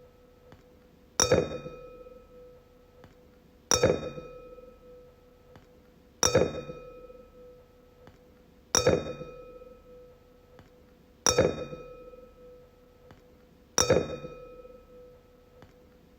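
A wine glass struck six times, about every two and a half seconds; each tap rings on at one steady pitch with a few fainter higher tones and fades away before the next.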